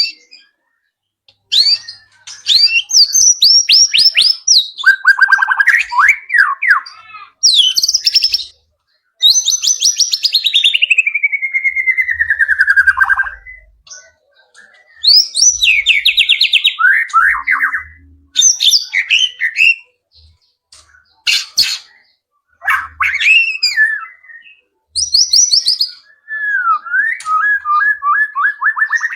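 White-rumped shama (murai batu) singing a varied run of phrases packed with mimicked calls: quick high trills, rising and falling slurs, and a long trill that falls steadily in pitch over about four seconds, with short pauses between phrases.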